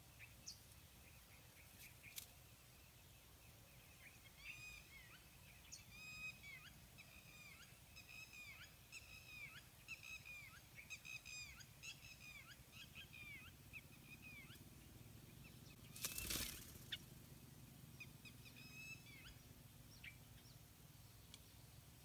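A bird calling faintly in a long run of short, arched notes, several a second, for about ten seconds, with a few more notes near the end. A brief loud noise cuts in about three-quarters of the way through.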